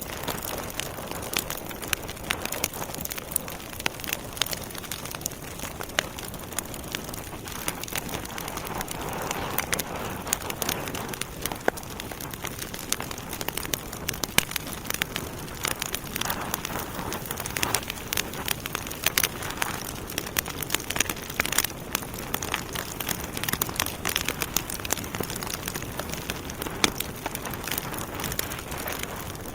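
Wood fire burning in a fireplace: a steady hiss with frequent irregular crackles and pops from the burning logs.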